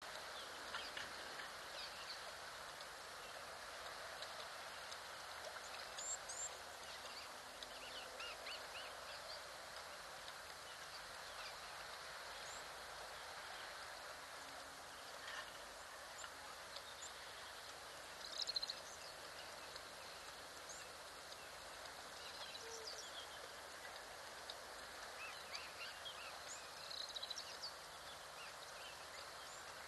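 Faint outdoor ambience: a steady low hiss with scattered short bird chirps, and louder bursts of chirping about 18 seconds in and again near the end.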